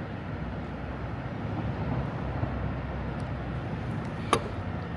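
Steady low rumble of outdoor city background noise, with a single sharp click about four seconds in.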